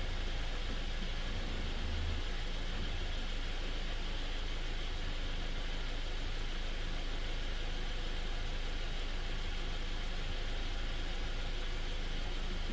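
Steady low hum of an engine idling, with no change in pitch or level.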